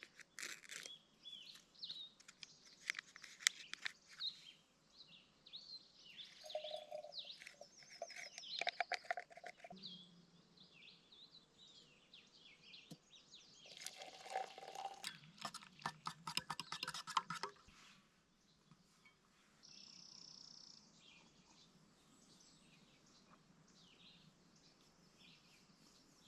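Wild birds chirping and calling, many short high notes overlapping, fairly faint. About halfway through, a run of rapid clicks lasting a few seconds.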